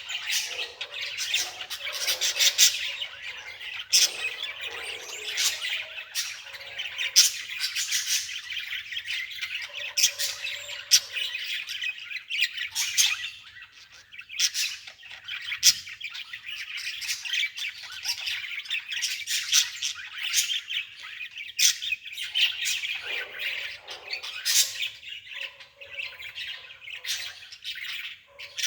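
Birds chirping and squawking in a dense, continuous chatter of short, sharp calls.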